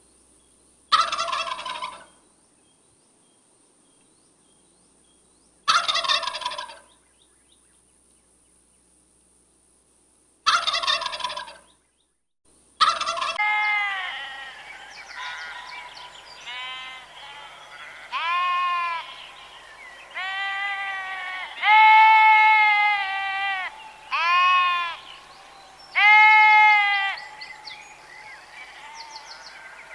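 A turkey gobbling three times, a few seconds apart. Then comes a run of repeated high, rising-and-falling sheep bleats, about one every one to two seconds.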